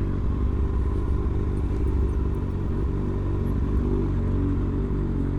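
Kawasaki Ninja ZX-6R 636's inline-four engine running at low, steady revs.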